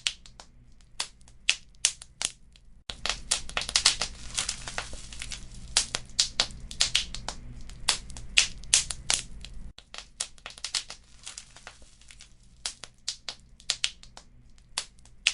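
Wood fire crackling, with sharp, irregular pops several times a second. From about three seconds in to near ten seconds, a low rumble and denser crackling join in, starting and stopping abruptly.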